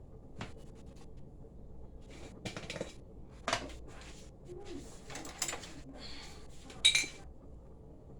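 Kitchen handling sounds: scattered rustling, scraping and light clicks of containers and utensils while seasonings are handled, with one louder clink about seven seconds in.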